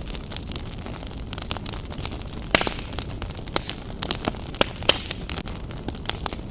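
Wood logs burning in a fireplace, crackling with irregular sharp pops over a steady low rumble of the flames; the loudest pop comes about two and a half seconds in, with a cluster of pops a little later.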